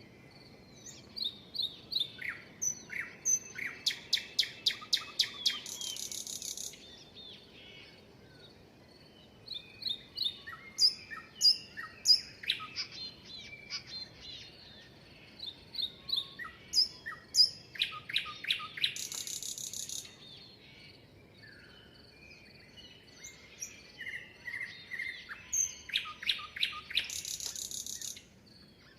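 Songbirds singing: four song phrases of chirps and whistled notes, a few seconds apart, each ending in a fast trill, over a faint steady hiss.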